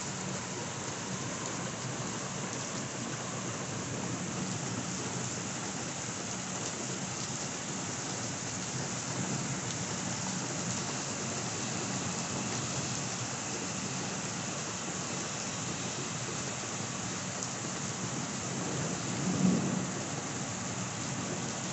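Heavy downpour of rain falling steadily onto pavement, with a short burst of thunder near the end.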